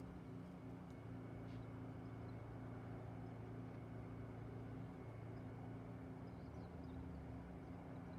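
Faint, steady low mechanical hum with a few faint high chirps near the end.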